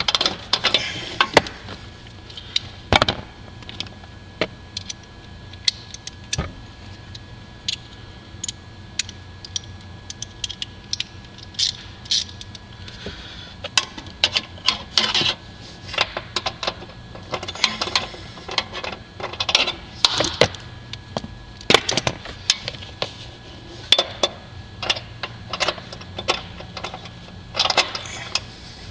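Irregular metallic clicks and clinks of a socket wrench being worked on a 13 mm bolt behind a car's dashboard, some in short quick runs.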